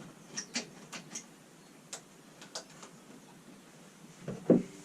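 Scattered light clicks and taps of hand tools and small metal and plastic parts being handled during a mower strip-down, with a louder knock about four and a half seconds in.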